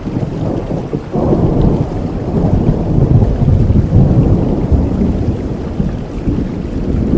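Thunder rumbling over steady rain: the low rumble swells about a second in, stays strong through the middle, and eases toward the end.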